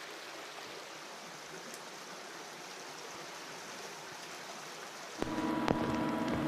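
Stream water flowing and splashing, a steady rushing. About five seconds in, a louder sound with steady hum-like tones and sharp knocks cuts in over it.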